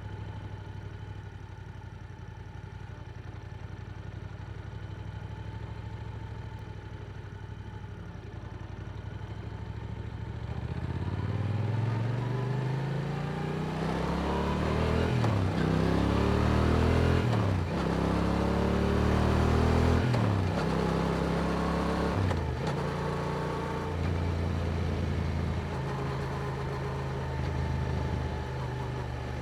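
Yamaha R7's parallel-twin engine through an Akrapovic exhaust, ticking over low and steady, then about ten seconds in pulling away hard. The revs climb and break at each of about four quick upshifts, then settle to a steadier cruise.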